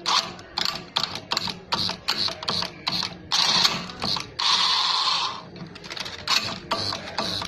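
Scraping strokes of hand-tool work, short and uneven in length, several a second, with two longer strokes near the middle.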